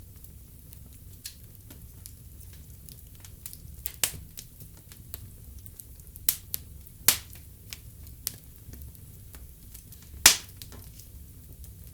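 Wood fire in a fireplace crackling: irregular sharp pops and snaps over a low steady rumble, the loudest pop near the end.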